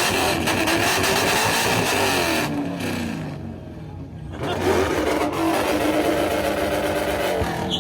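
A car engine revving hard through its exhaust. It holds high revs, falls off for a second or two about 3 s in, then revs sharply back up about 4.5 s in and holds again.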